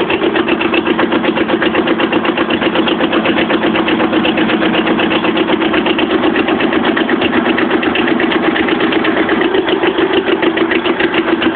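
Kubota B7000 compact tractor's diesel engine running steadily with an even rhythmic clatter, just after a cold start, having not run for weeks.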